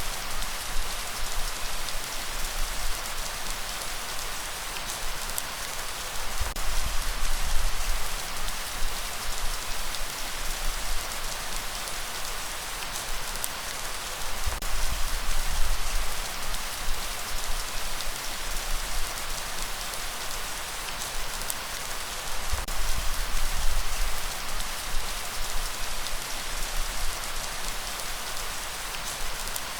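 Steady heavy rain falling, a dense hiss sprinkled with individual drop ticks, over a low rumble that swells and fades every few seconds.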